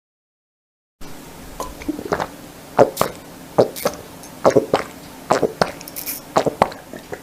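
A string of short, sharp pops, roughly two a second at uneven spacing, over a faint hiss; it starts after about a second of silence.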